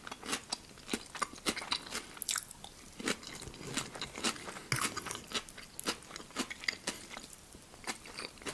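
A person chewing food close to a clip-on microphone: a steady run of small wet mouth clicks and crunches.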